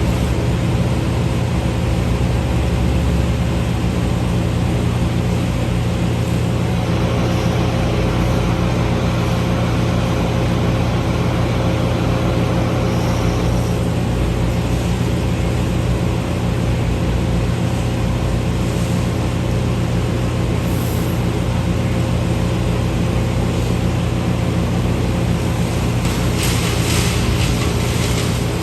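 A large engine running steadily at a constant speed, with a few light clicks near the end.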